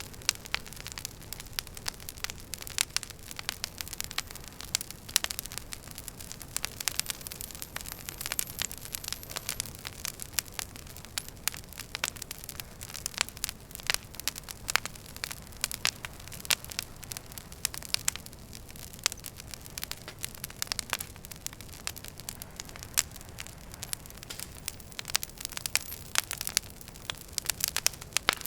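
Wood fire burning in a fireplace: many sharp, irregular crackles and pops over a steady low hiss.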